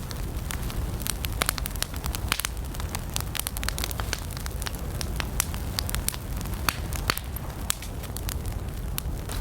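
Wood campfire burning, with frequent irregular crackles and pops over a steady low rumble of the flames.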